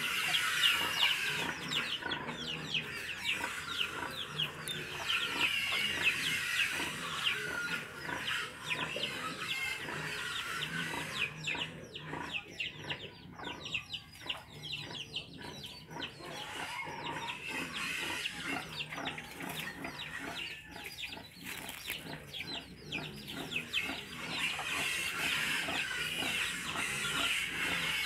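Birds calling in a dense, continuous chatter of short high calls, thinning briefly near the middle.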